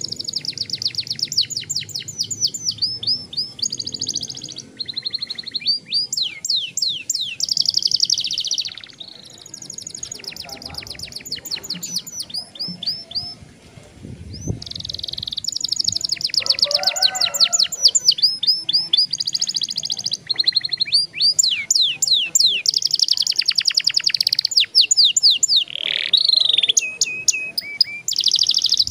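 Young domestic canary singing long rolling trills: fast runs of rapidly repeated notes, one run after another. The song softens for a few seconds about ten seconds in, then comes back louder.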